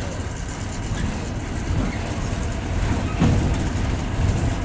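Bus engine and cabin rumble heard from inside a passenger bus, a steady low drone. A brief thud comes about three seconds in.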